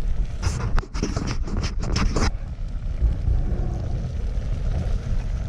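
Wind rumbling on the microphone, with a quick flurry of short, sharp noises from about half a second to two seconds in.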